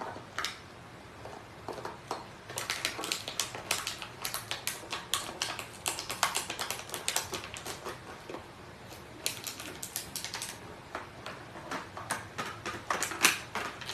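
Rapid, irregular light clicks and taps, several a second, with a short lull partway through.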